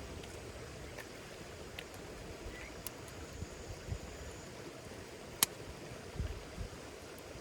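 Campfire burning: a steady low rush of the flames with scattered small crackles and one sharp pop about five seconds in.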